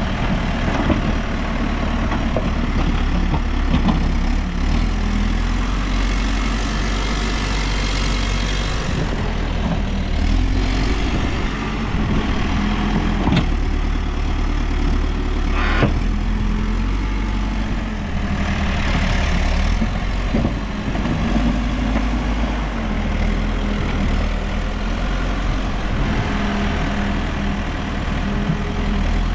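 New Holland backhoe loader's diesel engine running steadily under varying load, with two sharp knocks a couple of seconds apart around the middle.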